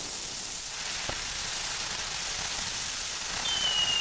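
Fireworks between bursts: a steady hiss with a faint pop about a second in. Near the end a thin whistle starts and slides slowly down in pitch, the whistle of a shell going up before it bursts.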